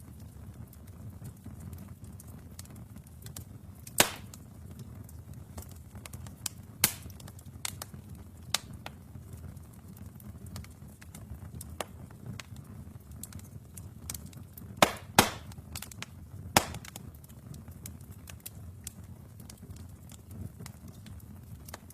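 Wood fire burning in a fireplace: a low steady rumble of the flames with scattered sharp crackles and pops, the loudest about 4 seconds in and a close pair near 15 seconds.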